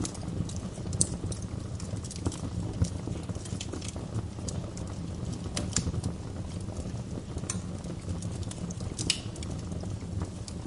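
Wood fire crackling: scattered sharp pops and snaps over a steady low rumble of the flames, the loudest pops about one and three seconds in.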